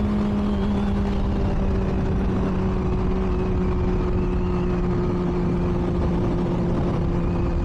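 Motorcycle engine running steadily at a low, even pitch that eases down very slightly.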